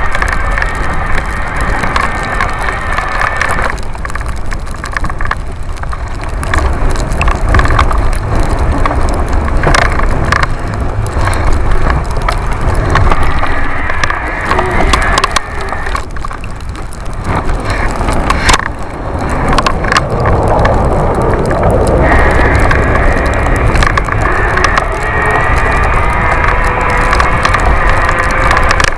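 Busetti Vortex electric bike riding fast through snow: wind rumbling on the mounted microphone, with frequent rattling knocks. A steady high whine, typical of the electric motor under power, is heard over the first few seconds and again over the last quarter.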